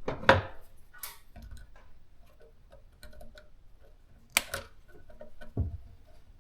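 A few sharp clicks and knocks of small objects being handled and set down, the loudest about a third of a second in, two close together past the middle, and a duller thud near the end.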